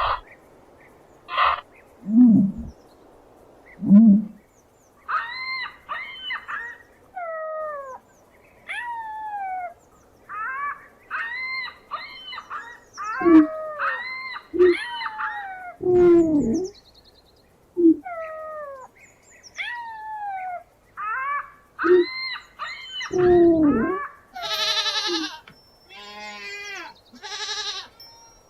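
Ostrich calls: short deep hooting calls, mixed with many quick high chirps that fall in pitch. About 24 seconds in, goats start bleating, several wavering bleats in a row.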